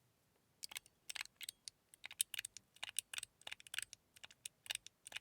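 Titanium mechanical fidget slider (a hand-tuned Metal Toys bubble slider) being slid back and forth, giving sharp metallic clicks in quick clusters that start about two-thirds of a second in.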